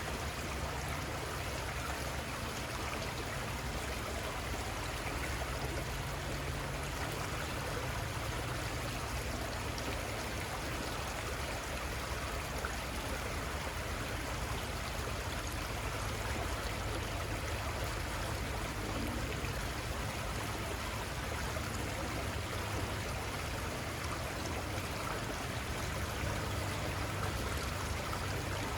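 River water flowing, a steady, even rush of a stream's current.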